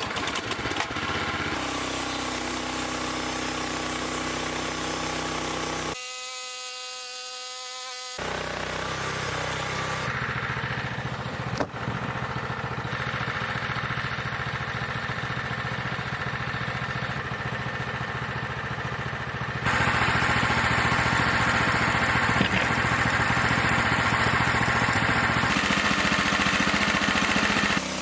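The engine of a sawmill running steadily, its pitch and level jumping abruptly several times. It is loudest for about six seconds in the latter part.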